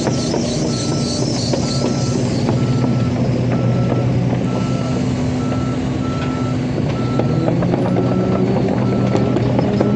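A heavy machine's travel or reverse alarm beeping, one steady high tone about once a second, over the low, even running of its diesel engine.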